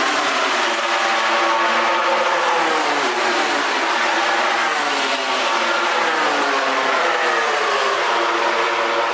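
MotoGP race-bike engine at high revs, its pitch repeatedly climbing as it accelerates and dropping back at gear changes and braking, with a drop about three seconds in.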